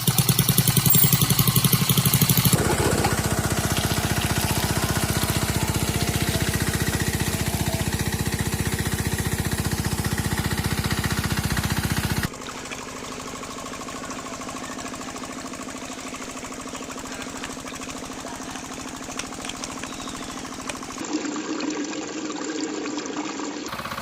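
Small engine running with a fast, even knocking beat, loud for the first twelve seconds and then quieter, changing abruptly a few times.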